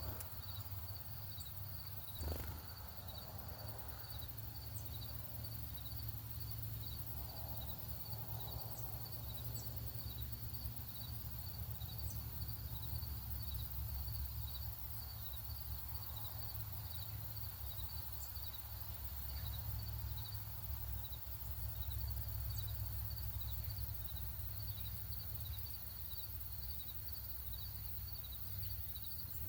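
Steady, evenly pulsed insect chirping, with a few brief high bird chirps over a low background rumble, and one sharp click about two seconds in.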